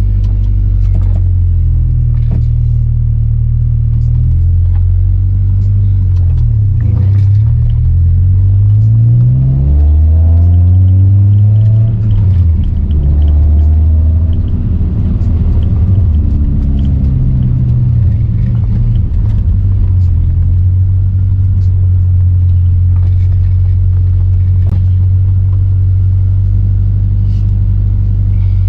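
Toyota MR2 Spyder's swapped 2ZZ-GE four-cylinder engine driving at a steady low drone, rising and falling in pitch through gear changes about a third of the way in before settling to an even cruise. The engine is freshly built and being driven gently through its break-in.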